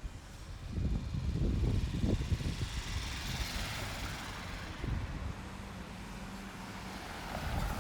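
Road traffic: a vehicle goes by, with a low rumble in the first few seconds and a tyre hiss that swells and fades around the middle.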